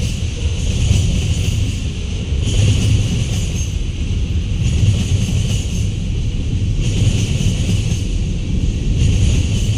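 Freight train cars rolling past on jointed track: a steady low rumble of steel wheels on rail, with a high metallic hiss that swells and fades a few times.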